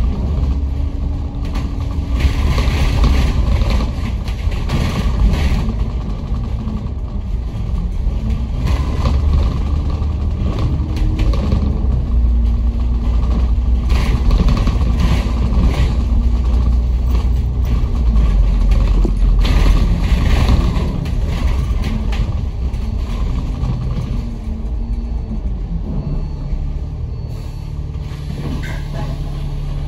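A Kowloon Motor Bus heard from inside the passenger cabin while driving: a steady, loud low rumble from the engine and drivetrain, with a hum whose pitch rises and falls as the bus speeds up and slows. A lower hum takes over a little before the end.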